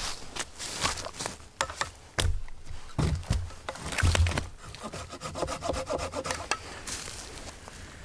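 Light hand saw cutting through dry deadwood, back-and-forth strokes of uneven pace, with a few dull knocks.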